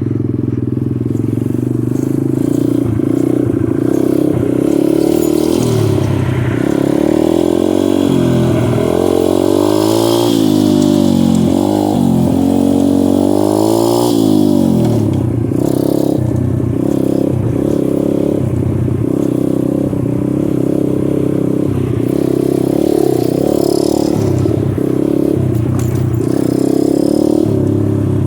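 Dirt bike engine running under way, its pitch shifting with the throttle, with quick revving up and down between about ten and fifteen seconds in.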